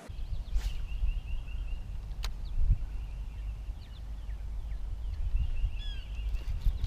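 Birds calling, a run of quick repeated chirps near the start and again near the end, over a low rumble of wind on the microphone, with one sharp click about two seconds in.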